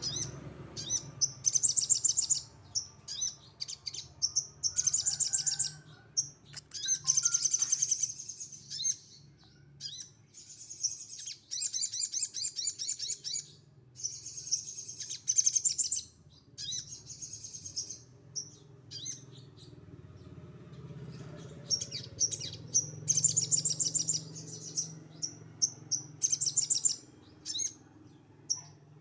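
Sogon songbird singing in repeated bursts of rapid, high-pitched trills, each lasting a second or two with short pauses between, delivered in the harsh 'shot' style the keepers call tembakan kasar. A faint steady low hum lies underneath.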